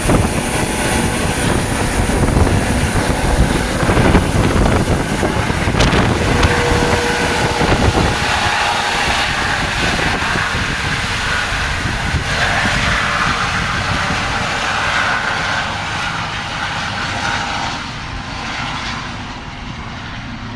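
Air ambulance helicopter's rotor and engine noise, steady at first and then gradually fading over the last several seconds as the helicopter moves off.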